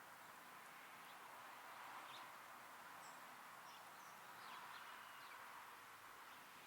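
Small songbirds giving faint, scattered short high chirps over a steady background hiss.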